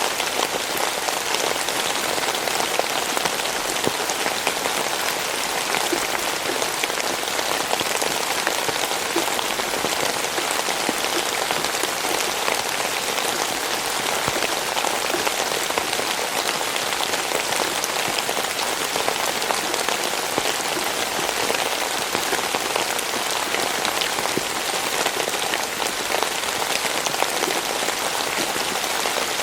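Steady rainfall pattering on a surface, a dense even hiss of many drops with individual drop ticks.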